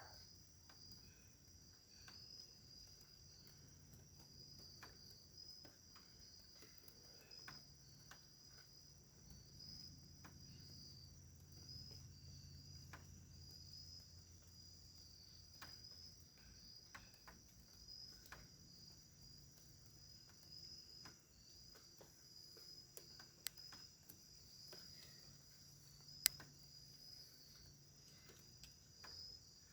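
Faint, continuous chorus of crickets chirping at night, a steady pulsing high trill. Two sharp clicks stand out late on.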